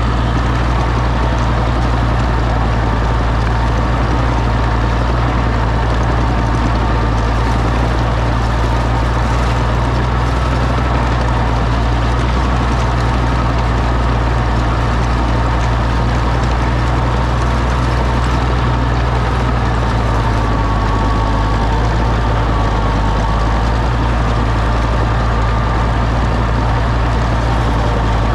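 Oliver OC-6 crawler tractor's engine running steadily at an even speed, loud and unchanging throughout.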